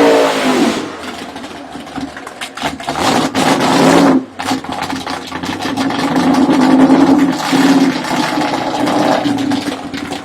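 Drag-racing car engine at full throttle. It drops in pitch at first, runs rough and crackling, and cuts out briefly about four seconds in. It then holds a steady high note for several seconds and eases off near the end.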